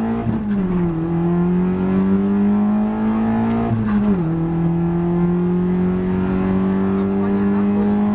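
Citroen Xsara VTS rally car's four-cylinder engine accelerating hard at full throttle, heard inside the cabin: the revs climb steadily, with quick upshifts about half a second in and about four seconds in, each dropping the pitch before it climbs again.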